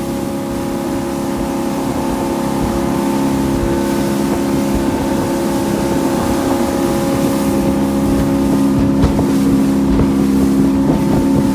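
Boat motor running steadily at trolling speed, a constant engine hum slowly growing a little louder, with wind rushing on the microphone.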